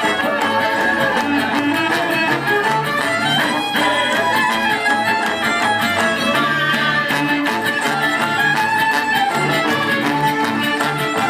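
Gypsy-style Balkan folk band playing an instrumental passage live, the violin to the fore over a steady rhythm and a bass line.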